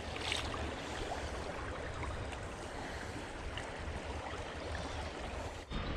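Creek water running steadily, an even rushing noise that breaks off briefly near the end.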